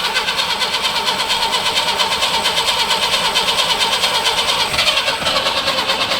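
1960 Peugeot 403's engine being cranked over by its starter motor with a freshly rebuilt carburetor, a steady rapid churning that goes on for about six seconds without the engine catching.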